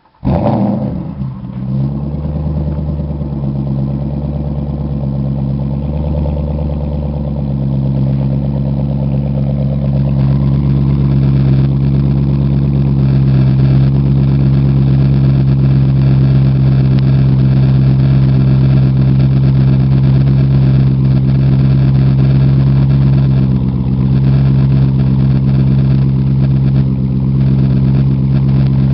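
Cadillac STS Northstar V8 starting with a brief flare, then settling into a steady idle through a custom Corsa exhaust with the mufflers deleted.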